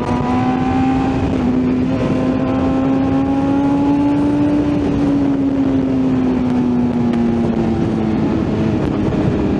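BMW S1000RR's inline-four engine pulling steadily on the move, its note rising slightly to about halfway and then easing back, under a steady rush of wind noise.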